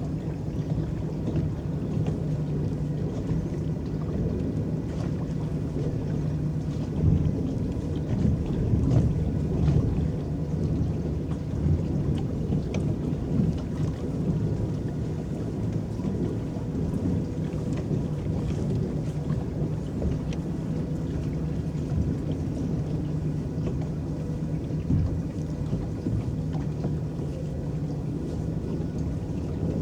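Electric paddle boat moving across a lake: a continuous low churn and splash of water against the boat. A faint steady hum runs underneath, and the water swells a little louder between about seven and ten seconds in.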